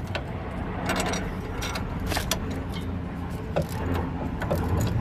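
Irregular metallic clicks and knocks of a hand wrench working a lower control arm bolt as it is tightened, over a steady low background hum.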